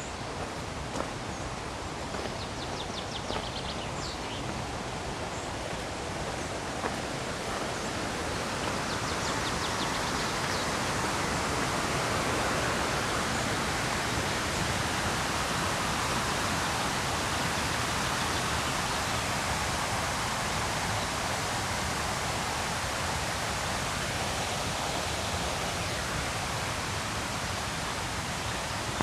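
River rapids rushing in a steady roar of water that grows a little louder about ten seconds in. A few faint bird chirps come in the first few seconds.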